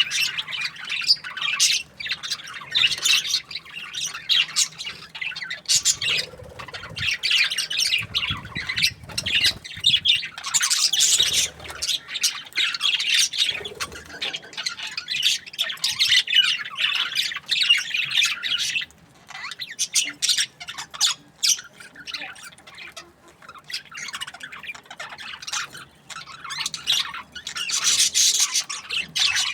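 A group of budgerigars chirping and chattering, a dense, continuous high-pitched twittering that thins out slightly for a few seconds past the middle.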